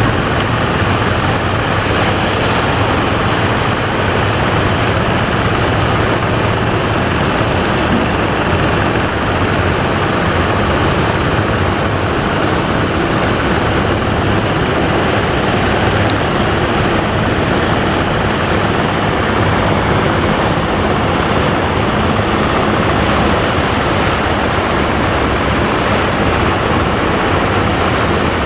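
Loud, steady rush of breaking ocean surf, with a steady low hum underneath.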